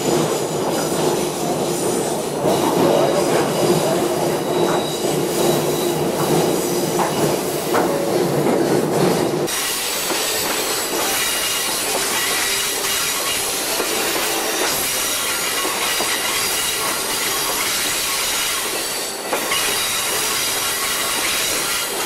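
A train running on the rails, heard from aboard. A steady low hum with tones gives way abruptly, about nine seconds in, to a thinner sound with high, steady wheel squeal as the cars round a curve.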